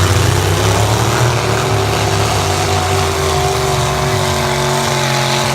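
A lifted truck's engine revs up over about two seconds, then holds at steady high revs, with a rushing hiss on top.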